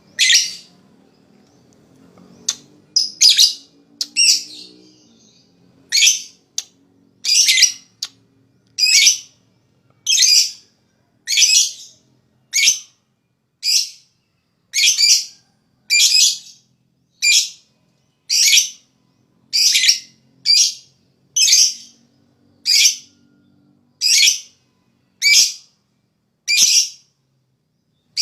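Lovebird giving its ngekek call: a long series of short, shrill, harsh calls, about one a second, starting after a couple of seconds.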